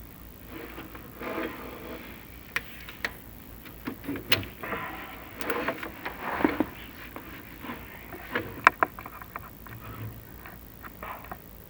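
A chimney inspection camera and its cable knocking and scraping against the inside of a creosote-glazed masonry flue as it is lowered: irregular sharp clicks and rubbing, with the loudest knock about nine seconds in.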